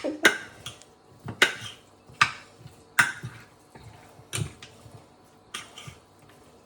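Kitchen utensils clinking and knocking against dishes while food is seasoned: about eight sharp separate knocks, roughly a second apart.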